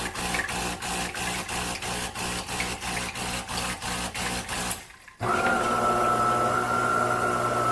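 De'Longhi Dinamica fully automatic espresso machine running its start-up warm-up cycle: a rapid rhythmic pulsing of about four to five beats a second over a low hum, which stops about five seconds in and, after a brief pause, gives way to a steady pitched hum.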